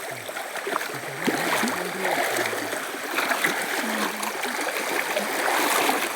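Steady running water, a stream splashing and trickling, with faint low voices in the first half.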